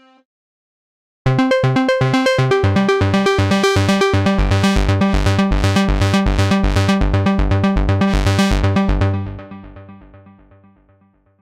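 Brainworx bx_oberhausen software synthesizer playing a fast, even sequenced pattern of short notes, low bass notes alternating with higher ones, starting about a second in and fading out over the last two seconds.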